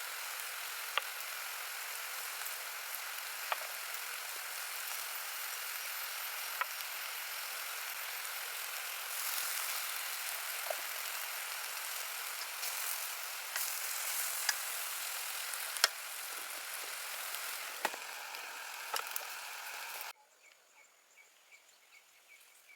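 Food sizzling and frying in hot oil, a steady hiss with scattered sharp pops. It cuts off suddenly near the end.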